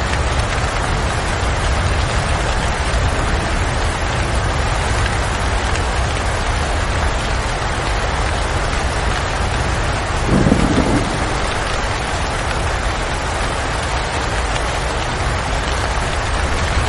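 Steady rain. About ten seconds in there is a short, low rumble.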